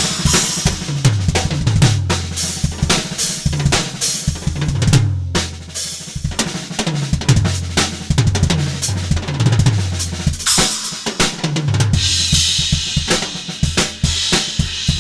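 Drum kit fitted with Omete cymbals being played as a groove, with bass drum, snare and rimshots, and a sustained cymbal wash near the end. A stepping bass line plays underneath.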